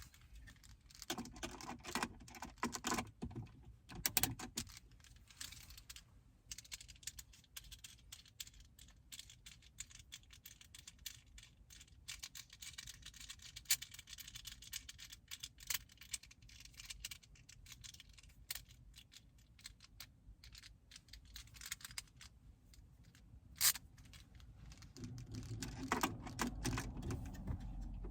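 Scattered small clicks, taps and scraping of plastic car interior trim being pried loose and handled while the center console is taken apart, with a stretch of soft scraping in the middle.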